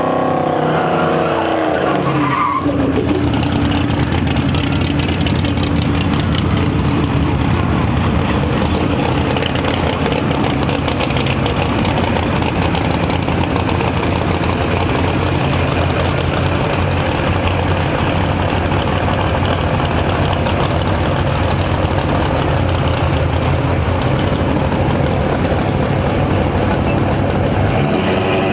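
Duramax turbo-diesel truck engine backfiring, with rapid, continuous popping and crackling over the engine's drone for about 25 seconds. This follows a run on nitrous, and the motor is probably toast.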